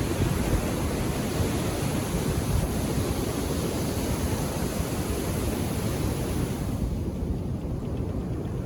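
Indian Ocean surf washing onto the shore: a continuous rushing noise, heaviest in the low range, whose higher hiss thins out about seven seconds in.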